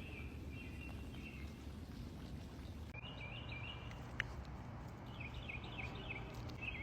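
A bird singing at night, faint: a short chirping phrase at the start, another about three seconds in, then a run of quick repeated down-slurred chirps from about five seconds in. A single small click falls a little after four seconds, over a steady low hum.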